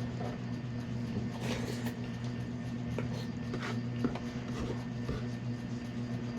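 Eating sounds at close range: scattered short clicks and smacks of chewing and of utensils on a plate, over a steady low hum.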